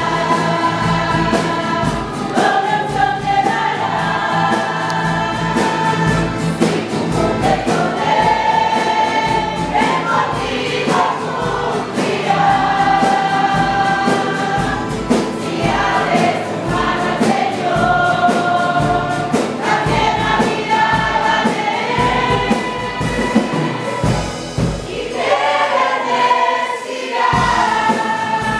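A choir singing a hymn in held, sustained notes, with instrumental accompaniment that keeps a steady low beat.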